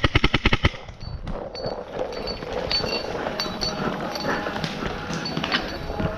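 Paintball marker firing a rapid full-auto stream, about a dozen shots a second, stopping under a second in; after that only fainter scattered pops.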